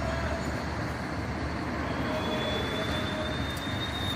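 Steady vehicle and street noise, with a thin high whine that comes in about halfway through and rises slightly.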